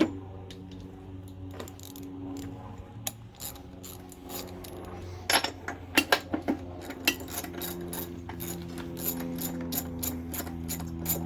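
Socket ratchet clicking in short runs as the spark plug is unscrewed from a Briggs & Stratton 3.5 hp lawn mower engine, with a steady low hum underneath. The clicks come thicker from about halfway through.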